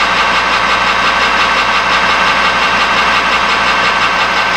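Metal lathe running steadily, with a steady whine made of a few held tones over its motor and gear noise.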